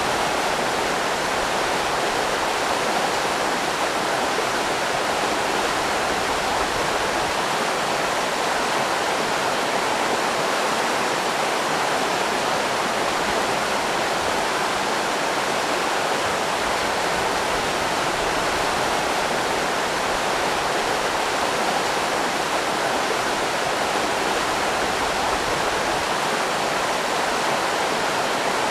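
River rapids rushing: a steady, even water noise.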